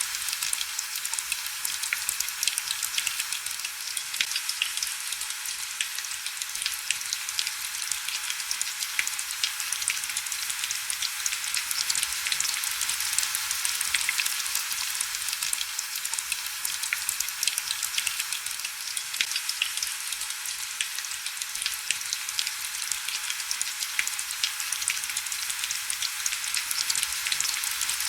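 Steady heavy rain, a dense hiss full of fine crackling drop ticks, with little low rumble.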